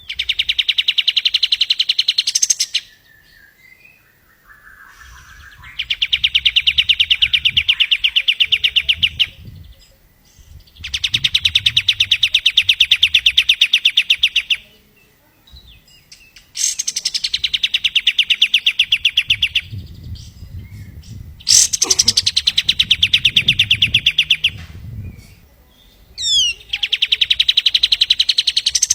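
Kapas tembak songbird repeating a long, very fast trill six times, each trill lasting about three to four seconds with short pauses between them. A quick whistled sweep comes near the end.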